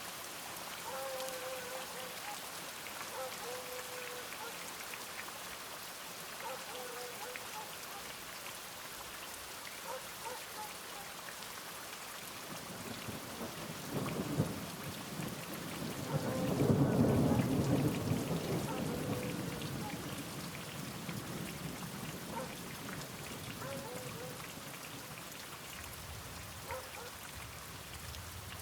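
Steady rain falling, with a roll of thunder that builds about halfway through, peaks a few seconds later and rumbles away.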